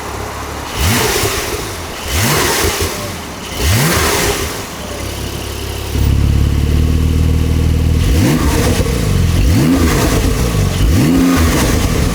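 Porsche 992 Turbo S twin-turbo flat-six on its factory sports exhaust, idling and blipped about six times. Each rev rises and falls quickly. The idle gets louder about halfway through.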